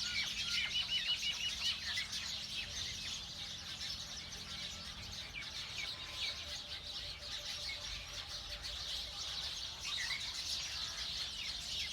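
Many small birds chirping and singing together in a busy chorus, with a quick run of repeated high notes about a second in.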